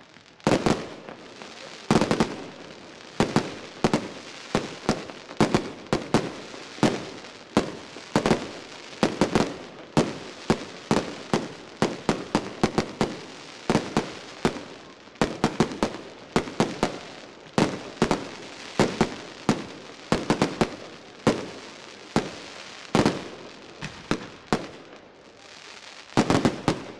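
Fireworks display: aerial shells bursting one after another in sharp bangs, about one or two a second, with crackling between them.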